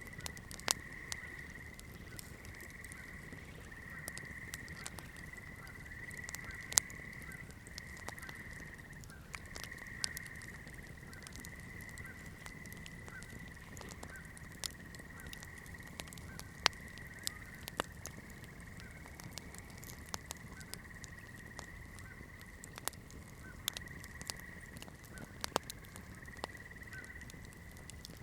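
Campfire burning, its wood crackling with irregular sharp pops over a soft low hiss. A steady high-pitched chirring runs behind it throughout.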